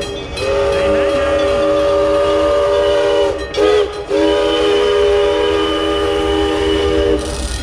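Park railroad steam locomotive sounding its chime whistle as it passes: a long blast, a short one, then another long blast, each a steady chord of several notes.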